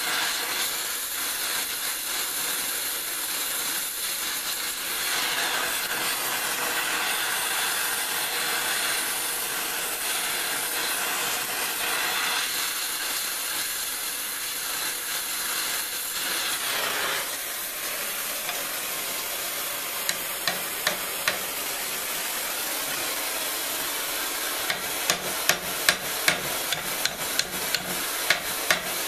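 Oxyacetylene torch with a welding tip hissing steadily as it heats steel pipe. About 20 s in come a few sharp taps, then near the end a quick run of sharp metal strikes as the hot pipe is driven down onto itself.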